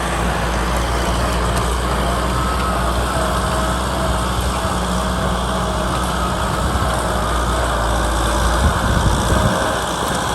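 Kubota tractor's diesel engine running steadily while plowing a field; its low rumble drops off near the end.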